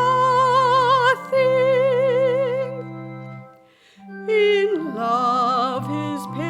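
A solo voice singing a hymn with a wide vibrato over held accompaniment chords. The voice drops out for about a second near the middle, then comes back in.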